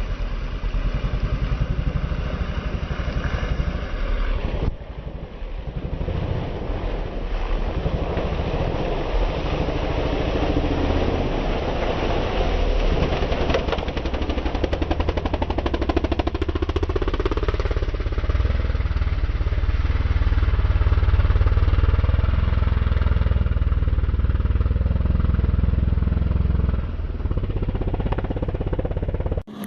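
Racing engines running and revving, the sound rising and falling, with a sudden change about five seconds in.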